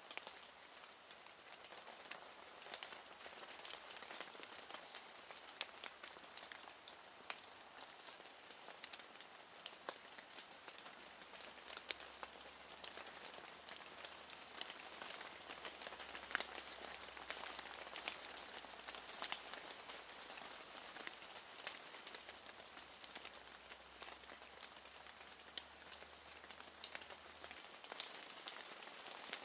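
Steady rain falling against a window, with many small, sharp drop ticks scattered through it.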